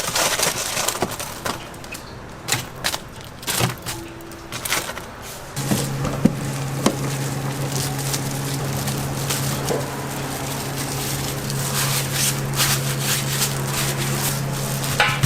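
Scattered knocks and clatter of kitchen work, then a machine motor starts about five and a half seconds in and runs with a steady hum, with occasional clicks over it.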